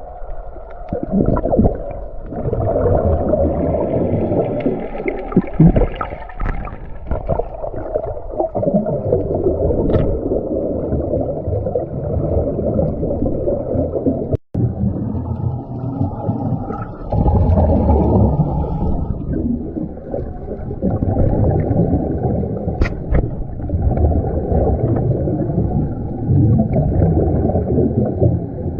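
Muffled underwater noise picked up by a submerged camera, with irregular bubbling and gurgling surges from scuba breathing, all of it dull and low with little treble. A brief break about halfway through.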